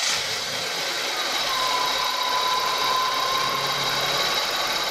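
Lexus RX 300's 3.0-litre V6 running just after it has started. It is running on the horn relay fitted in the EFI relay's socket, which shows that relay works. A thin steady whistle rises above the engine noise for a few seconds in the middle.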